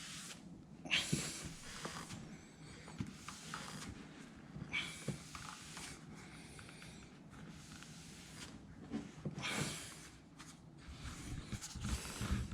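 A few short rubbing, scraping swishes, about four, over a low steady hum.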